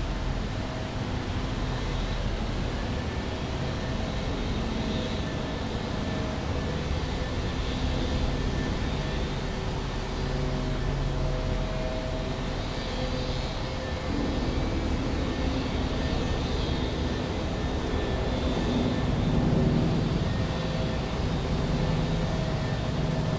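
Shallow brook running steadily over stones. A low, steady hum of distant engines lies underneath, swelling slightly near the end.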